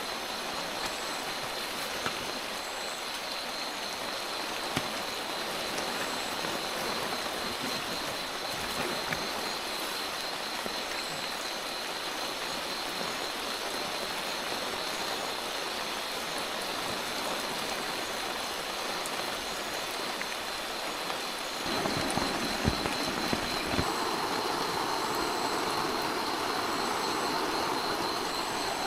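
Heavy rain pouring down steadily. A little over two-thirds of the way through it grows louder and fuller, with a few sharp knocks.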